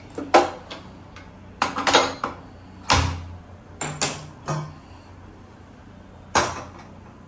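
Kitchen clatter: a string of sharp knocks and clinks as dishes and utensils are handled, mostly in the first few seconds, then one more knock after a pause near the end.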